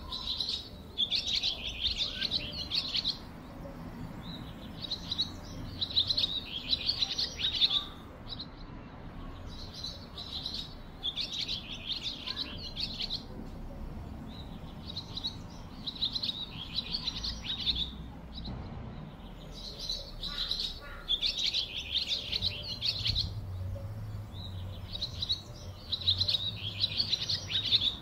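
Small birds chirping in bouts of rapid high chirps, one to three seconds each, recurring every few seconds over a low steady background noise.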